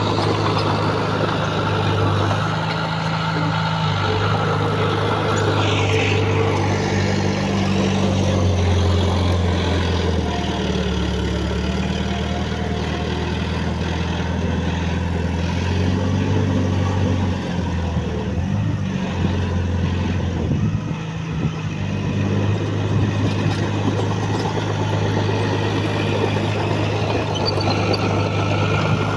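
Heavy diesel engine of earthmoving machinery running under load, its pitch shifting up and down as it works, with a brief high whine about six seconds in.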